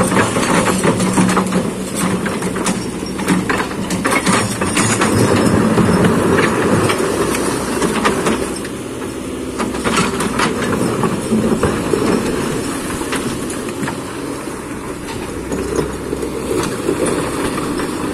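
Kobelco hydraulic excavator working: its diesel engine runs steadily under load, with repeated clanks and scraping as the bucket handles rock.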